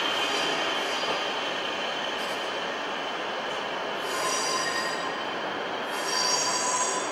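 A train moving slowly through the station with a steady rumble, its wheels squealing against the rails in two high-pitched bouts about four and six seconds in.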